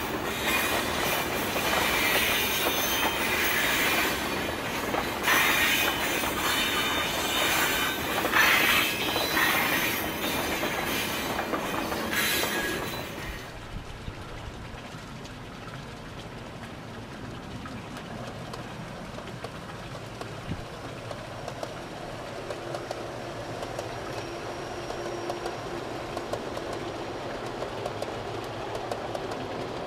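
A recorded full-size freight train passing, loud and noisy with some high ringing tones, cutting off about 13 seconds in. Then G-scale model freight trains running on garden track: a quieter steady rumble with many small, quick clicks.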